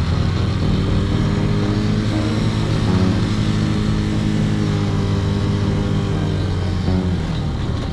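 A motor vehicle engine running at a steady pitch under road and wind noise, changing near the end.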